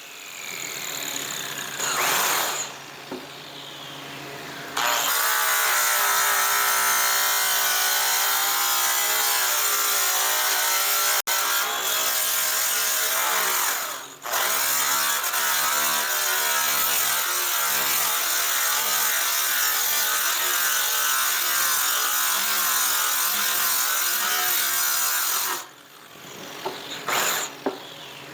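Electric rotary polisher cutting a metal aircraft exhaust pipe with compound. Its motor pitch wavers as it is pressed into the work. It runs in short spurts at first, then steadily, with a brief let-off partway through and short bursts near the end.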